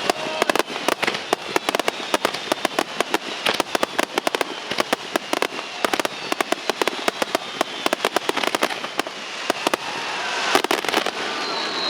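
Aerial fireworks display in a rapid barrage: dense sharp bangs and crackles several times a second, with faint whistles sliding in pitch among them.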